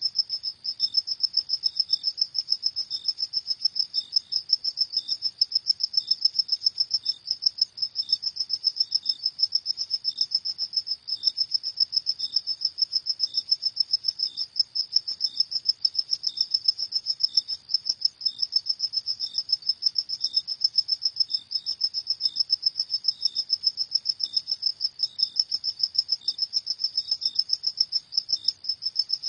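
Crickets chirping in a steady, rapid, high-pitched pulse, with a second, fainter and lower chirp repeating about once a second.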